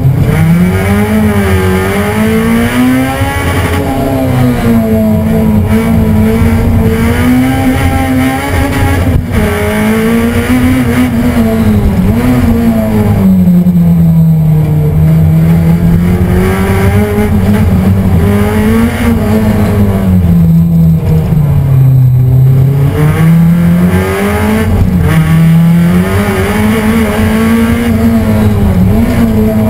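Race car engine heard from inside the cockpit at full effort, its revs climbing and falling back every few seconds as it accelerates and slows through the corners of a lap.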